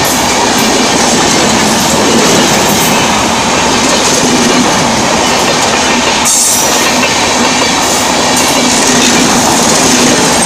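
Shatabdi Express passenger train passing close by at speed: a loud, steady rumble and rattle of wheels on the rails.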